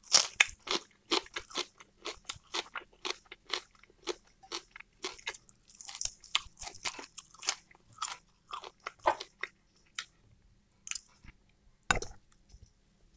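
Close-miked chewing and mouth sounds of someone eating roast chicken, wet bites and smacks at about two to three a second that thin out after about ten seconds. Near the end comes a single louder knock.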